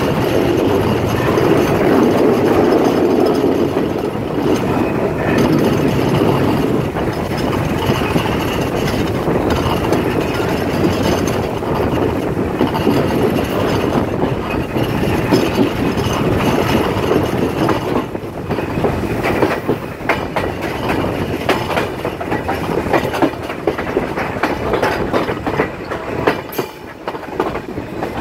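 Bangladesh Railway intercity passenger train running at speed, heard from an open coach window: a steady rumble of the coaches with wheels clattering over the rails. In the last ten seconds or so the clickety-clack turns sharper and more frequent.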